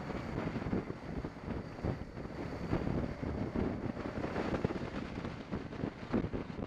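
Wind buffeting the microphone of a camera riding on a moving motorcycle, in uneven gusts, with road and vehicle noise beneath.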